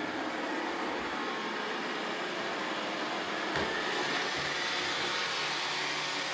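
Roomba robot vacuums running, a steady whirring of their suction motors and brushes, with a single light knock about three and a half seconds in.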